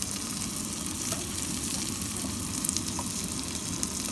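Green chillies and onions sizzling steadily as they fry in a pot on a camp stove, with a few light knife taps on a wooden cutting board.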